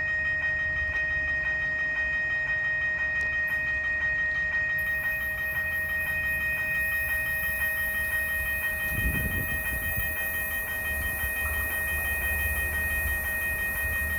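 Approaching MBTA HSP-46 diesel-electric locomotive and commuter train, not yet close: a steady low rumble with steady high-pitched tones over it. A hiss comes in about five seconds in, and there is a brief low thump about nine seconds in.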